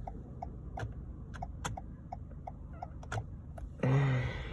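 Turn-signal indicator of a 2020 Toyota Corolla LE ticking in a steady run of clicks, with a short, louder sound near the end.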